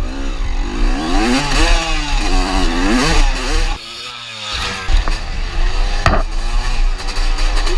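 Honda CR250R single-cylinder two-stroke motocross engine revving up and down hard as the rider works the throttle. Its sound drops away for about a second near the middle, then picks back up.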